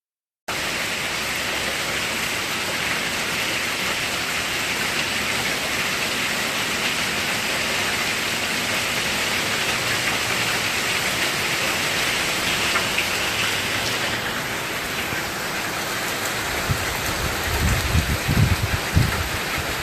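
Steady rain hiss from a downpour, with uneven low rumbling thumps in the last few seconds.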